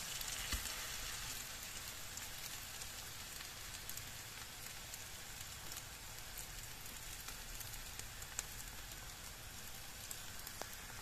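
Eggs and spring onions sizzling steadily in hot oil in a frying pan, with a few faint clicks of a fork working through the frittata.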